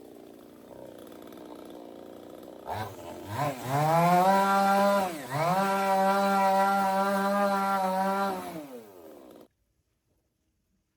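Chainsaw engine idling, then blipped a few times and held at full throttle for several seconds, with one brief drop in revs. It then winds down and cuts off suddenly.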